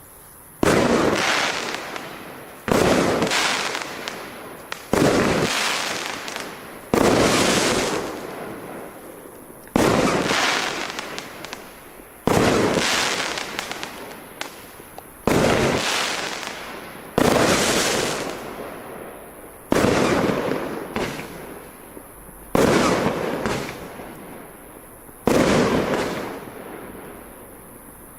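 Pyro Meta 'King of the Wild' 500-gram firework cake firing shot after shot, about one every two to three seconds, each a sudden loud bang that trails off over a couple of seconds, with a few smaller pops in between.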